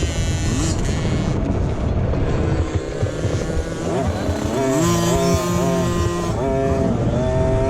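Dirt bike engines racing, revving up and dropping back over and over as the riders work the throttle and shift gears, with more than one bike at different pitches.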